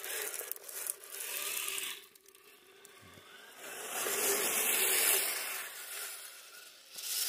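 Small electric RC crawler motor whining while its tyres churn and scrape through slushy snow, swelling twice as the truck drives on.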